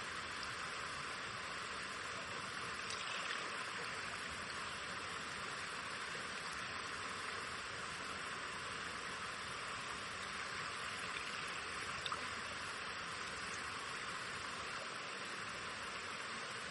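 Shallow forest stream flowing steadily, an even rush of running water with faint small splashes.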